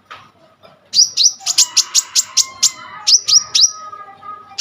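Kolibri ninja sunbird singing vigorously: after a quiet first second, a fast run of sharp, high chirps, each sweeping downward, about five a second, carrying on to the end.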